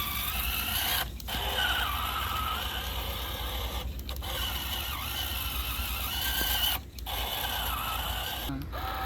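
Homemade miniature tractor's small motor and gear drive whining, the pitch wavering up and down over a steady low hum, with a few brief dropouts.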